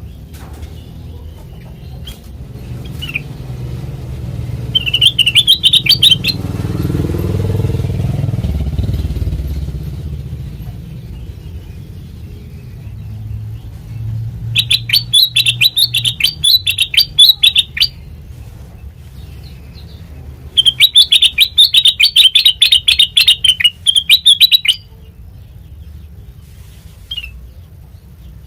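A kutilang mas, a bulbul, sings three bursts of rapid, chattering repeated notes: a short one about five seconds in, then two longer runs of several seconds each. Under the song a low rumble swells and fades around seven to ten seconds in.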